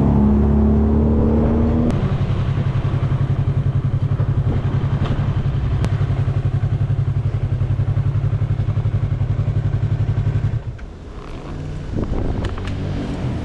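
Yamaha MT-03 motorcycle engine running on the move, heard from a bike-mounted camera; its note changes about two seconds in to a steady, fast pulsing. About ten and a half seconds in the engine drops off sharply as the bike slows, with a few clicks after.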